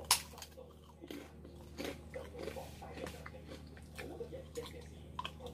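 A person biting into and chewing fried egg close to the microphone: one sharp bite just after the start, then soft chewing with small wet clicks and smacks.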